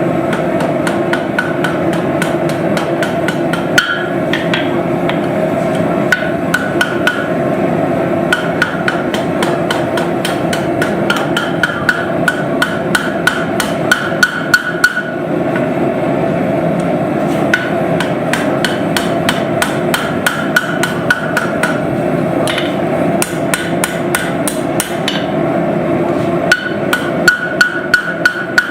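Hammer blows on hot steel at the anvil, forging a knife blade, coming in quick runs of several strikes a second with short pauses between, some strikes leaving a brief ring. A loud steady rushing noise runs underneath.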